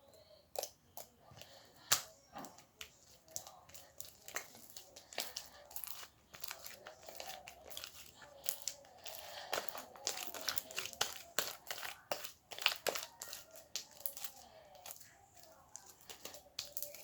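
Hands squishing and stretching slime, giving a dense, irregular run of crackling and popping clicks, busiest in the middle.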